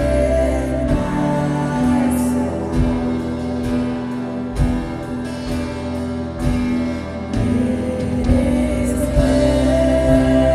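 Live worship band playing a slow song: sustained keyboard and guitar chords over bass, with scattered drum hits and cymbal swells about two seconds in and again near the end.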